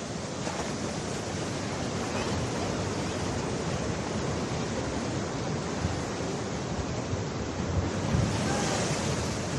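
Ocean surf washing steadily onto a beach, with wind buffeting the microphone in low rumbles near the end.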